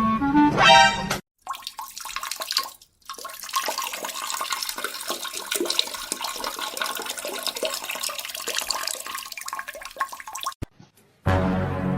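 Rushing, splashing water for about nine seconds, dense with small clicks and splashes, ending abruptly; short snatches of music come just before and just after.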